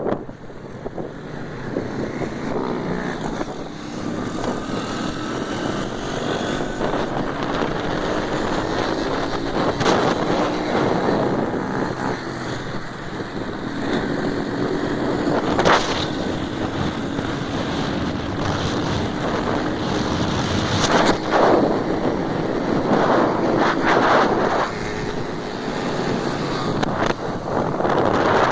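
Motorcycle engine running under load, its pitch climbing slowly and then dropping back several times, with wind buffeting the microphone.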